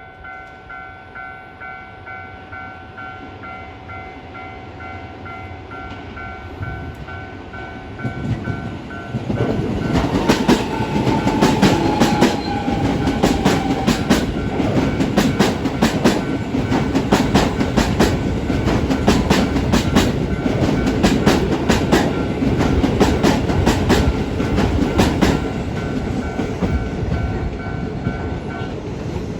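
Level-crossing warning bells ring in a steady repeating pattern while a Keisei 3000-series electric train approaches and runs over the crossing. From about nine seconds in, the train's passing noise takes over, with a rapid rhythmic clatter of wheels over the rail joints and crossing for about fifteen seconds. The bells stop shortly before the end.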